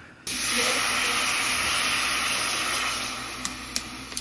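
Water gushing, starting suddenly and easing off after about three seconds, followed by a few light clicks or taps.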